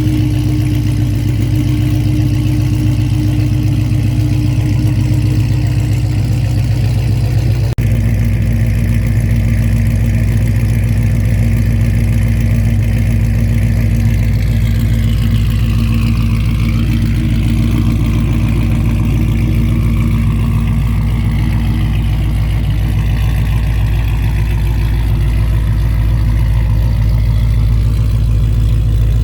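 Cammed 5.7L Hemi V8 of a 2009 Dodge Challenger R/T idling steadily through long-tube headers and a loud aftermarket exhaust. About eight seconds in the sound cuts abruptly, and afterwards the idle runs at a lower pitch.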